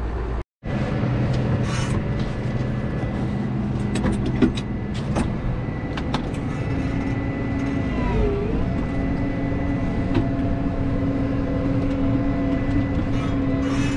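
Tractor engine running steadily, with a few sharp clicks and knocks along the way.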